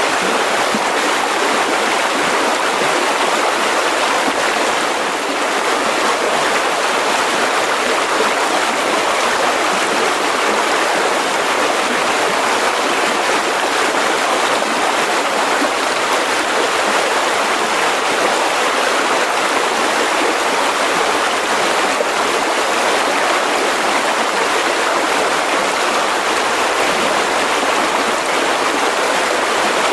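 Mountain river rushing over rocks: a steady, full rushing of water.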